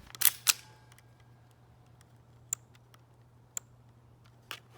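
HPA airsoft rifle with a Valken V12 engine firing two single shots a quarter second apart near the start, followed by three fainter sharp clicks about a second apart.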